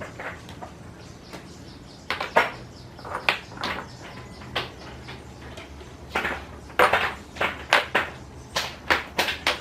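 A series of short, irregular knocks, sparse at first and coming several a second from about two seconds in, over a faint low steady hum.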